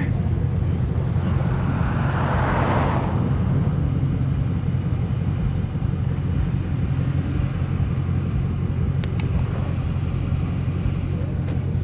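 Steady low road and engine rumble inside a moving car. About a second in, a rising hiss swells and then stops abruptly about three seconds in.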